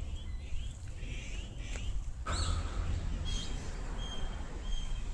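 Small birds chirping, with a short flat whistled note repeated three times in the second half, over a steady low rumble.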